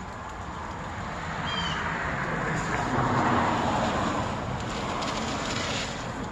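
A small bird gives one short chirp about one and a half seconds in, over a broad rushing noise that builds to a peak midway and then fades.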